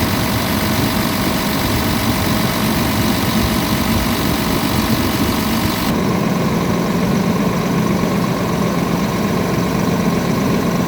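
Scania R tractor unit's diesel engine idling steadily. About six seconds in, the hiss above the engine note drops away abruptly while the idle carries on.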